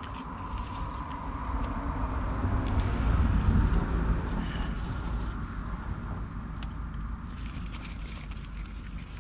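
A motor vehicle passing by: a low rumble that builds to a peak about three seconds in and then fades away.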